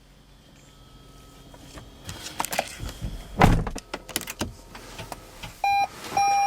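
Rustling and knocks with a solid thud about halfway through, like a car door shutting, then a steady electronic beep tone that starts near the end.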